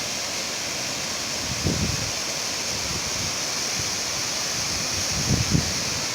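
Steady rush of a mountain waterfall, with two brief low thumps about a second and a half in and near the end.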